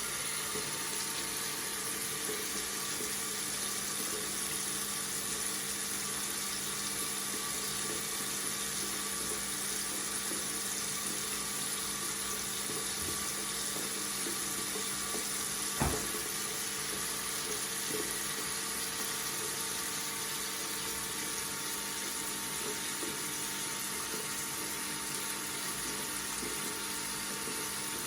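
Water running steadily from a faucet, with a single sharp click a little past halfway.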